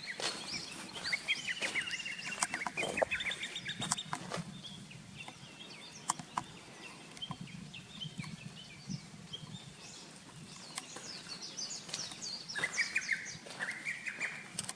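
Wild birds singing: a quick run of repeated short notes in the first few seconds, a short high note, and another phrase of calls near the end, with scattered light ticks.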